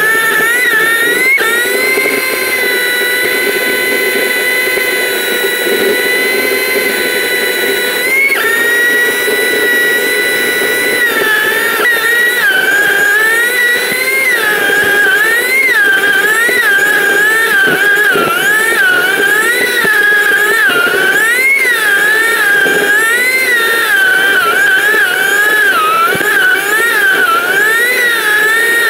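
Sport motorcycle engine, a Honda CBR600RR inline-four, running at high revs under way. Its pitch holds steady for several seconds, then rises and falls over and over, about once a second, with the throttle.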